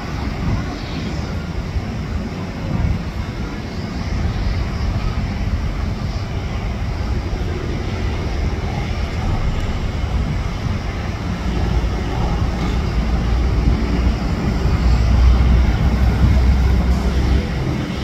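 Jet airliner engines, a low rumble that builds and is loudest from about twelve to seventeen seconds in, then eases.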